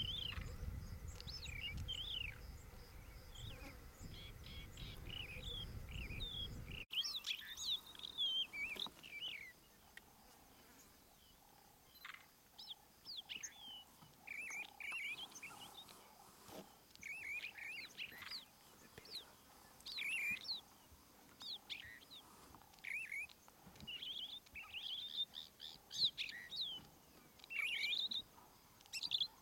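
Small songbirds chirping and whistling in short, quick phrases, over and over with brief pauses. A low rumble under the calls stops abruptly about seven seconds in.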